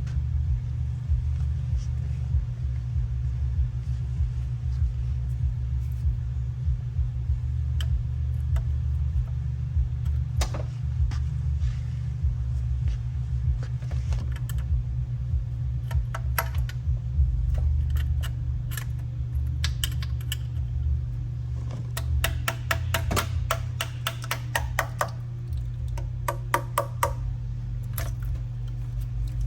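Hand ratchet wrench clicking in quick runs, with scattered taps of tools on metal, as bolts of the engine's lower cover are worked loose; the runs of clicks come thickest in the second half, over a steady low hum.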